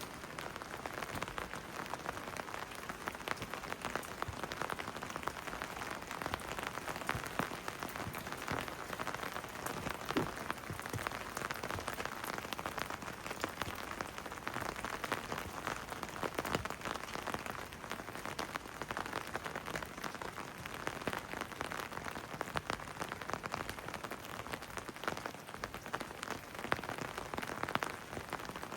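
Steady rain falling, with many separate drops striking hard surfaces close by, heard as a continuous hiss dotted with individual ticks.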